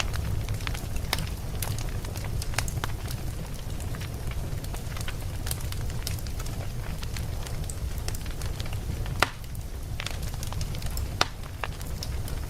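Wood fire crackling, with many small irregular pops over a steady low rumble of the burning. Two sharper, louder pops come about nine and eleven seconds in.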